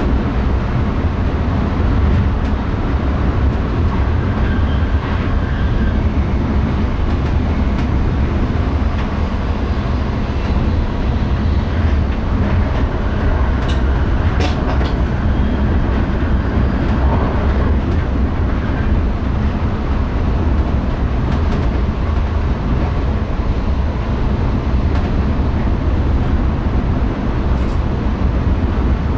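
NS ICM (Koploper) electric intercity train running on the line, heard in the driver's cab: a steady rumble of wheels and running gear, with a few sharp clicks about halfway through.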